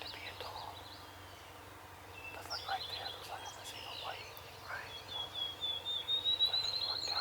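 Wild turkey gobblers gobbling in the distance amid a chorus of songbirds. Near the end, a songbird's rapid trill climbs in pitch and is the loudest call.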